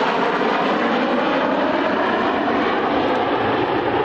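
BAE Nimrod MR2 maritime patrol aircraft making a low pass, its four Rolls-Royce Spey turbofans giving loud, steady jet engine noise.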